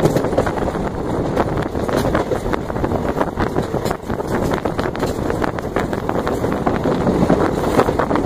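Moving passenger train running along the track, its steady rumble broken by irregular clicks and clatter, with heavy wind rushing over the microphone held out of the coach window.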